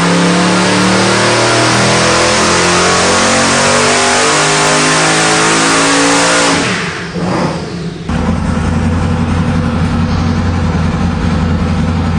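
Boosted 1450 hp LSX small-block V8 on a full-throttle dyno pull, revving with a steadily rising pitch for about six and a half seconds. Then the throttle is shut, it winds down and settles back to idle about eight seconds in.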